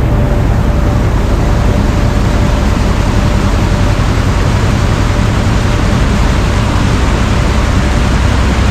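River boat under way: a steady, loud rushing noise over the low rumble of its engine, with a faint steady hum.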